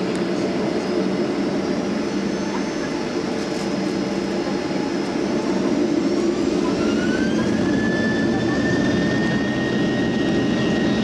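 CFM56-7B1 turbofan engines of a Boeing 737-800 spooling up for takeoff: a steady rumble, then a whine that rises in pitch about six seconds in and holds high and steady as the engines reach takeoff thrust.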